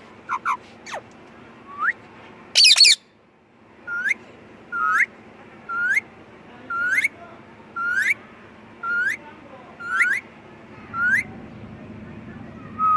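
Indian ringneck parakeet calling: a loud harsh squawk about three seconds in, then a steady run of short rising whistles, roughly one and a half a second.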